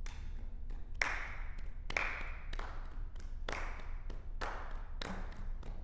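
Sharp percussive hits in a steady rhythm, roughly one to two a second, each ringing on in a large concert hall; low guitar notes come in near the end as the song starts.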